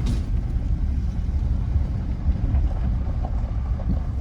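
Ford Ranger PX3 driving along, a steady low rumble of engine and road noise.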